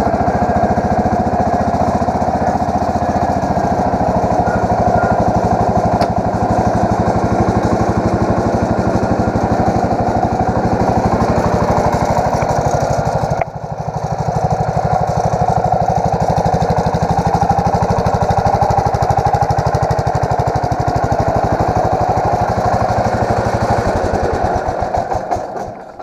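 Allis Chalmers 716H garden tractor engine running steadily, after months of sitting on mostly old gas, and running pretty good. Its sound dips briefly about halfway through, then the engine winds down and stops near the end.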